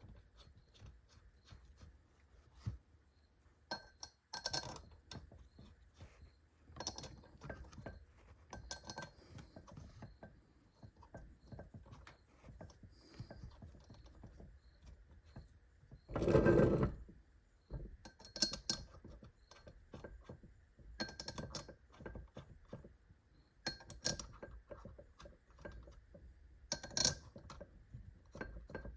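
Light metallic clinks and taps of steel bolts being handled and hand-threaded around the aluminium transmission case, with a couple of louder knocks partway through.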